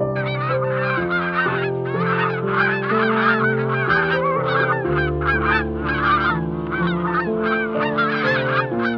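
A flock of birds calling continuously in dense, overlapping calls, bunched about twice a second, over background music.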